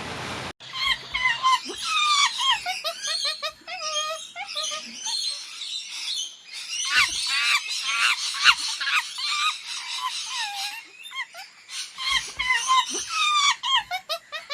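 A chorus of many animals calling at once: overlapping quick, warbling high-pitched chattering calls, starting abruptly about half a second in.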